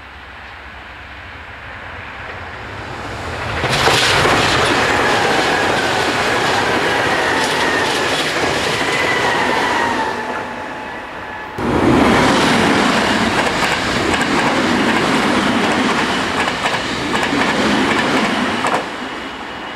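Two electric commuter trains passing at speed, one after the other with an abrupt cut between them. Their wheels rumble and clatter over the rail joints, and the first carries a high whine over the noise.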